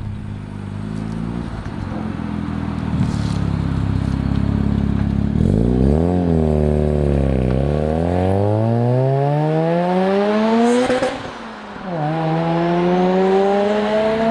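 Single-turbo Mazda RX-7 FD3S's 1.3-litre twin-rotor rotary engine running at low revs, then blipped once, rising and falling in pitch, about six seconds in. It then accelerates with the revs climbing steadily, breaks off briefly with a sharp crack at a gearchange about eleven seconds in, and climbs again in the next gear.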